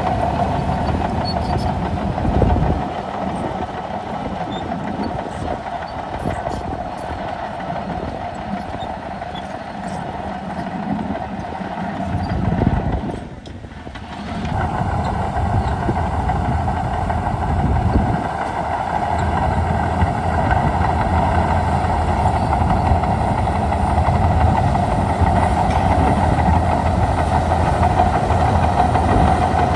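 Shantui DH17C2 bulldozer working: its diesel engine runs steadily with a constant whine from the machine, and the tracks clatter. The sound drops away briefly about halfway through, then comes back at the same level.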